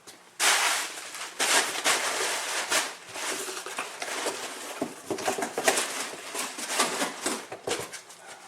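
Parts packaging rustling and crinkling in irregular bursts as it is handled and unpacked.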